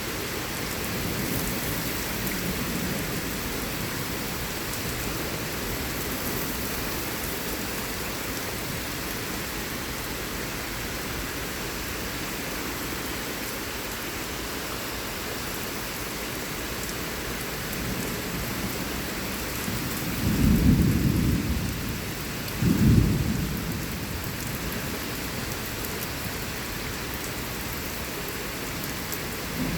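Thunderstorm with heavy rain falling steadily. About two-thirds of the way through come two loud, low rumbles of thunder a couple of seconds apart.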